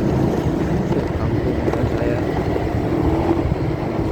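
Steady motorcycle riding noise, engine and wind rumble together, heavily muffled because the phone is recording from inside a pocket.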